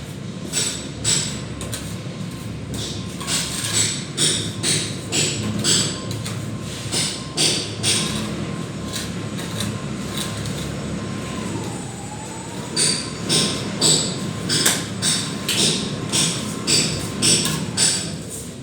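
Plaster being worked by hand with a trowel: a run of short scraping strokes, about two a second, pausing for a few seconds midway, over a steady rumble and a faint steady whine.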